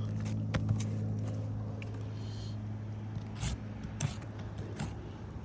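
A steady low mechanical hum runs throughout, with scattered short light clicks and taps over it.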